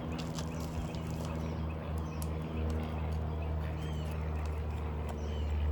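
Irregular clicks and taps of hand tools working at sealed asphalt shingles to pry shingle 2 loose, over a steady low hum.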